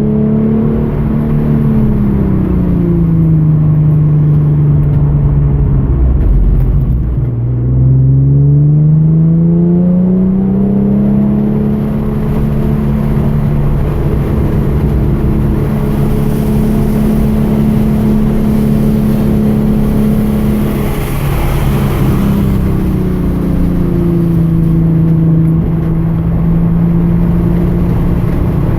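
The 3.8-litre V6 of a 2013 Hyundai Genesis Coupe under load on track: revs fall in the first few seconds, climb steadily from about seven seconds in, hold steady for a long stretch, then drop briefly near the two-thirds mark and settle lower before picking up again near the end.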